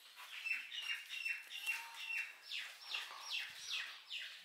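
Birds calling: a quick, even run of short falling notes, about three a second, with a steadier high note held through the first half.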